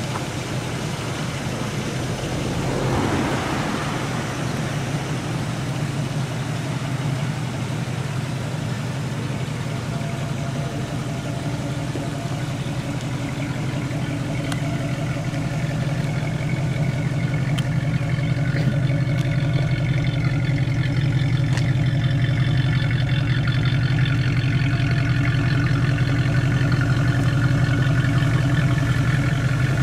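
1984 Buick Regal Limited's 5.0 L V8 idling steadily, its low hum growing louder in the second half. There is a brief rushing sound about three seconds in.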